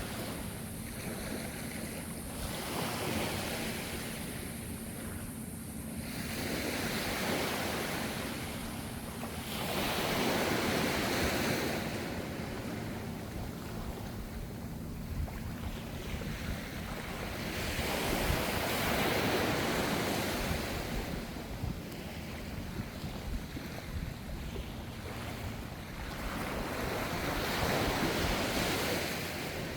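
Ocean waves washing ashore, a steady surf with a louder wash swelling and fading every few seconds, with wind noise on the microphone.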